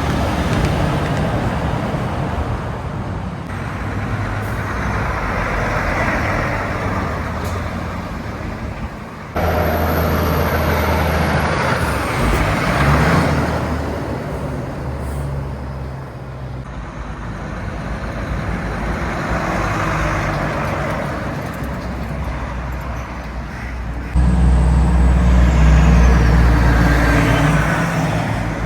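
Heavy trucks and other traffic passing by on a highway, one after another, each pass swelling and fading with tyre noise and a low diesel engine drone. The sound jumps abruptly in level a few times.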